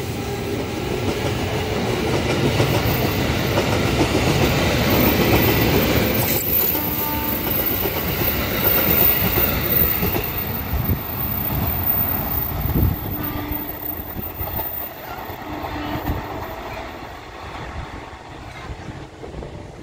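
KRL Commuter Line electric multiple-unit train running past on the track. Its noise swells over the first half and then fades away steadily as the train recedes.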